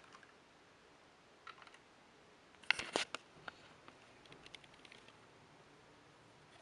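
A few faint clicks and light taps over room tone, with a short cluster of sharper clicks about three seconds in.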